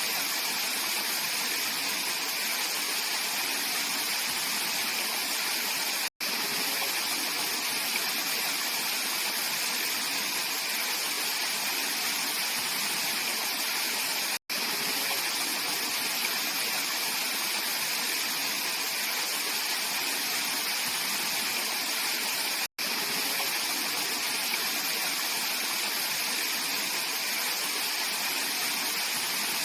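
Mountain stream rushing over rocks in a steady, even flow. The sound cuts out for an instant three times.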